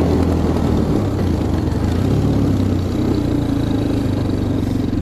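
Quad bike engine running steadily, heard close up from on the moving bike; the engine note dips slightly about a second in and rises again a couple of seconds later.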